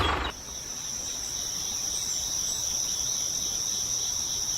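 Insects chirring in a steady, high-pitched drone, like crickets. A louder sound cuts off abruptly just after the start.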